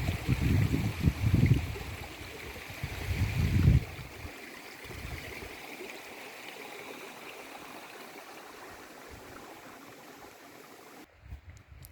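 Stream of running water rushing steadily, with bursts of low rumble in the first four seconds; the sound cuts off abruptly near the end.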